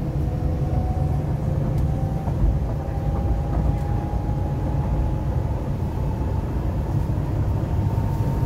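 MTR East Rail Line R-Train running, heard from inside the carriage: a steady low rumble of wheels on track, with a faint whine from the traction motors rising slowly in pitch.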